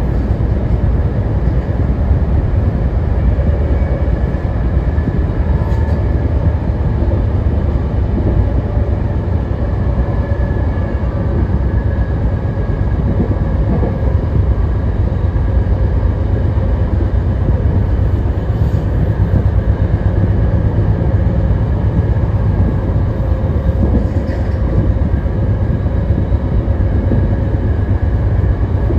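BART Legacy Fleet train running steadily, heard from inside the car: a loud, even low rumble of wheels on track, with faint steady whines above it.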